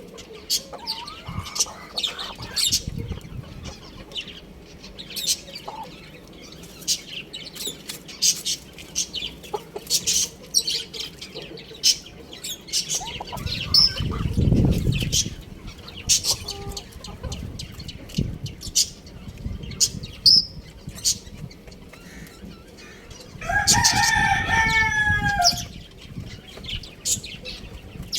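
Small rooster clucking and giving short chirping calls throughout, then crowing once, a call of about two seconds, near the end. A low rush of noise comes about halfway through.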